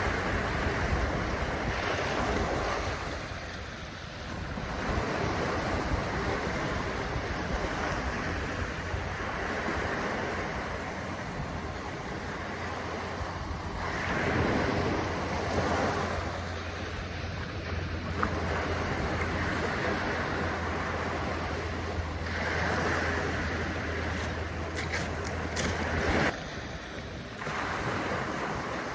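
Waves washing in and drawing back, swelling every several seconds, with wind rumbling on the microphone.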